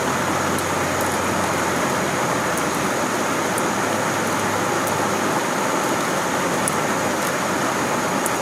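Steady rush of stream water below a waterfall, even and unbroken, with faint scattered ticks of small splashes.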